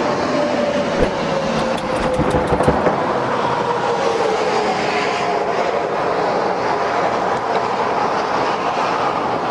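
Highway traffic rushing past close by: a steady road roar with a whine that slowly falls in pitch, and a quick run of clicks and knocks about one to three seconds in.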